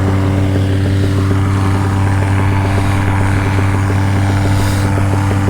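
Paramotor engine idling at a steady, even pitch.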